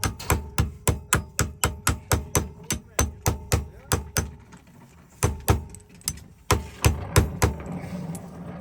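Hammer tapping rapidly and evenly on metal, about four light blows a second. After a short pause about four seconds in, a few slower, uneven blows follow.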